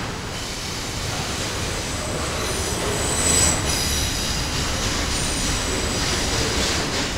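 Double-stack intermodal freight train's container well cars rolling past close by, steel wheels on rail, with a high-pitched wheel squeal from about two and a half to four seconds in and again briefly near five seconds.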